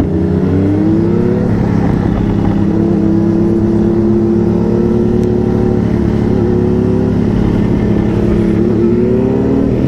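Motorcycle engine running steadily under way, with small shifts in pitch as the throttle changes.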